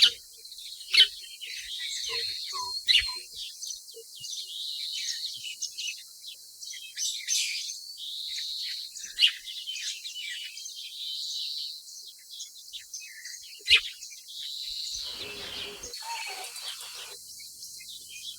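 Small birds chirping and twittering in short, scattered calls, broken by a few sharp, loud clicks.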